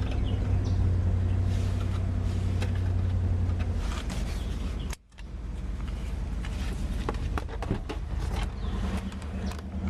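Wood-gas-fuelled Dodge Ram pickup engine running with a steady low drone, with scattered rattles and clicks. The sound drops out abruptly for a moment about halfway through, then resumes.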